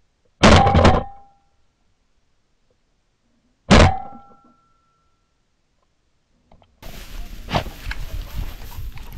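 Two shotgun shots at passing doves, about three seconds apart, each a sharp blast with a short ringing tail. Near the end, steady outdoor field noise comes in.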